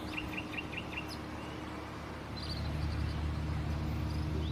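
A small bird chirps a quick run of five short high notes, with a single note later on. About halfway through, a low rumble comes in and holds.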